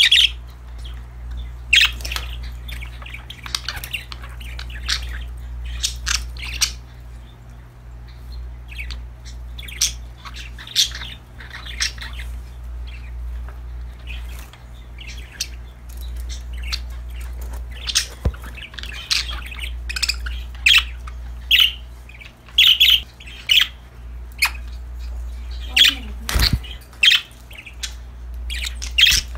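Pet budgerigars chirping and squawking in quick, sharp calls, several birds at once, busier in the second half. A steady low hum runs underneath.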